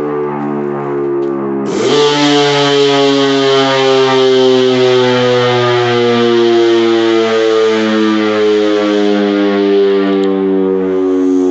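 Model 5 mechanical outdoor warning siren sounding a loud, many-pitched chord that slowly falls in pitch. About two seconds in it suddenly gets louder and harsher, and the hiss in the upper range drops away near the end.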